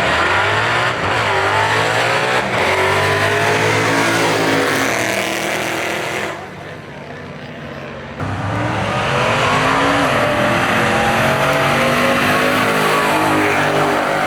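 Drag cars accelerating hard down the strip, the engine pitch climbing and dropping back again and again through gear changes. The sound falls away about six seconds in, then another hard-accelerating run starts abruptly about two seconds later.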